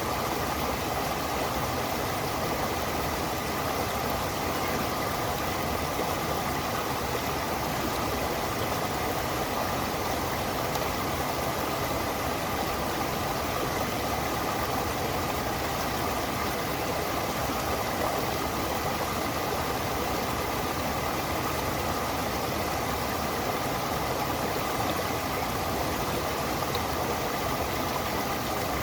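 Stream water rushing, a steady even noise that does not change.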